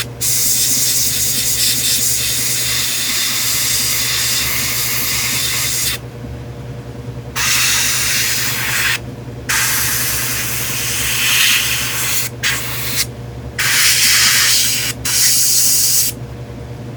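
Airbrush spraying grey paint in a series of hissing bursts, about six, stopping and starting every second or few seconds. A steady low hum carries on through the pauses.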